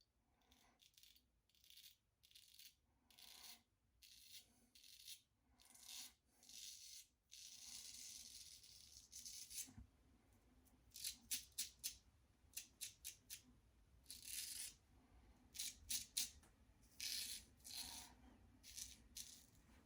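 Outlaw safety razor scraping through lathered stubble in short, faint strokes, one after another with brief pauses.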